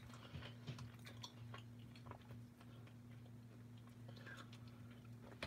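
Near silence: faint, scattered mouth clicks of chewing over a steady low hum.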